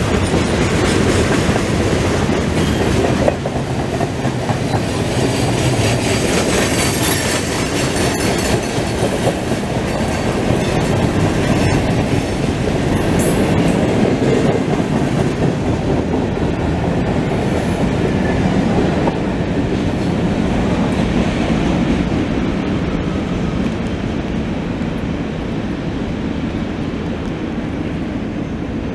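CSX manifest freight train's cars rolling past, their wheels clicking steadily over the rails, easing off a little near the end as the last cars go by.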